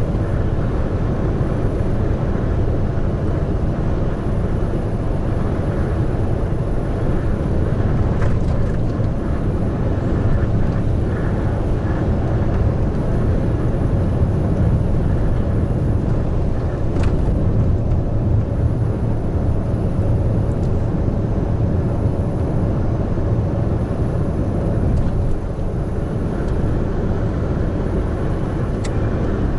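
Large truck driving on an expressway: steady engine and road noise, heaviest in the low range, with a few faint clicks.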